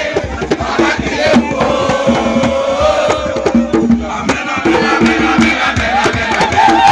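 A crowd of young people singing and chanting together over a dense, rhythmic percussion beat, in a lively campfire song.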